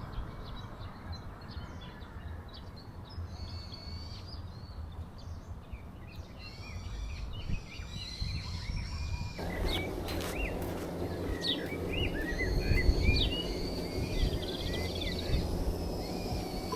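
Many small birds chirping and calling, busier in the second half, over a steady outdoor background noise with a low rumble that grows louder about nine seconds in.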